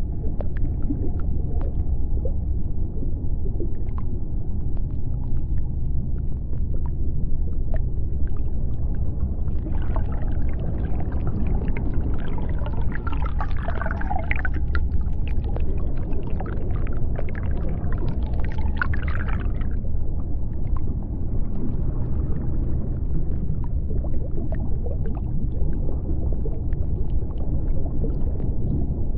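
Underwater soundscape: a steady low rumble scattered with clicks. From about ten seconds in to about twenty, a cluster of higher squeaks and gliding calls rises over it.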